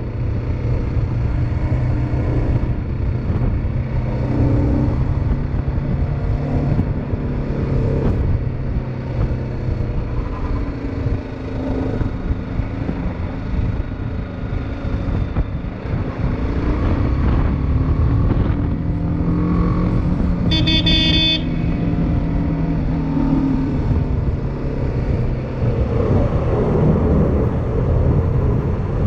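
Motorcycle engine running while riding, its pitch rising and falling with the revs, under steady rumble and wind noise. A vehicle horn sounds once, briefly, about twenty seconds in.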